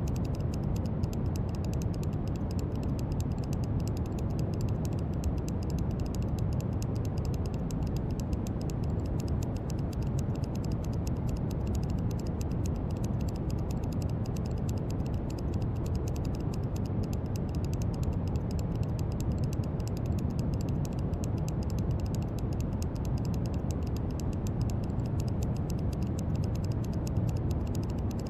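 Steady brown noise: an even, deep hiss strongest in the bass and fading toward the treble, unchanging throughout.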